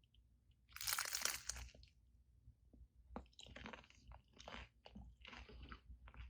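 A crisp quesadilla being bitten into with one loud crunch about a second in, followed by steady crunchy chewing.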